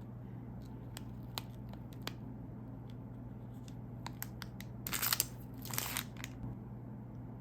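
Crinkling and tearing of a plastic snack wrapper being opened, with scattered small clicks and two short crackly bursts about five and six seconds in.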